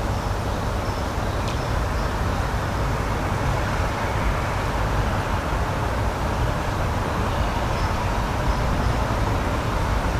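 Steady outdoor rushing noise, heavy in the low end, with a few faint high chirps.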